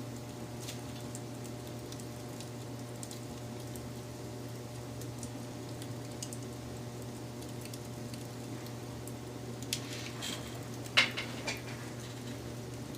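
Wood fire crackling, with scattered small snaps over a steady low hum, then a cluster of louder pops about ten to eleven seconds in, the loudest just after eleven seconds.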